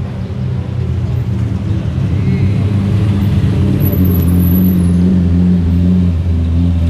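Lamborghini Murciélago's V12 engine running loud and steady, its drone building over the first few seconds and then holding.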